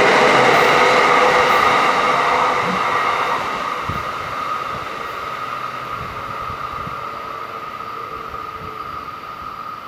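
Metro-North electric commuter train pulling away: its rumble dies down over several seconds. A steady high whine lingers on as it goes.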